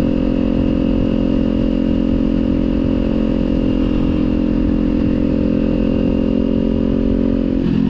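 Kawasaki motorcycle engine through a Leo Vince aftermarket exhaust, running at steady cruising revs with the note sagging slightly, then dropping suddenly near the end.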